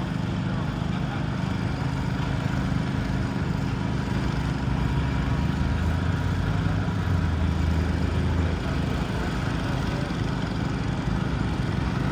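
Garden tractor engine running steadily, its low note growing stronger for a couple of seconds from about six seconds in.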